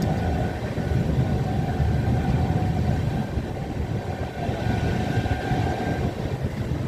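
Train running on the rails: a steady heavy rumble, with a faint steady whine over it that fades out near the end.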